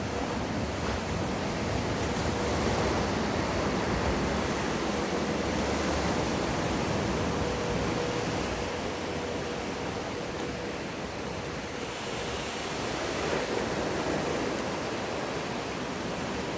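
Rushing, churning water of a breaking wave in a surf wave pool, a steady wash that swells twice.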